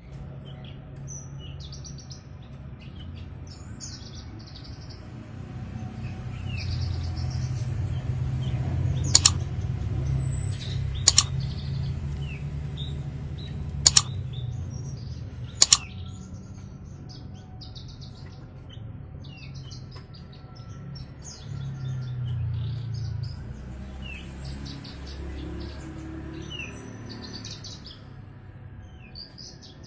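Javan bush lark (branjangan) singing a busy run of short, high chirps and trills. Four sharp clicks, the loudest sounds, fall in the middle stretch, over a low rumble that swells twice.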